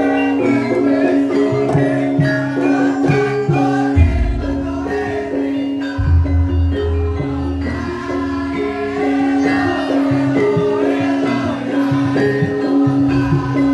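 Javanese gamelan music accompanying a Lengger dance: a steady ringing tone under a melody, with deep drum strokes a few seconds in.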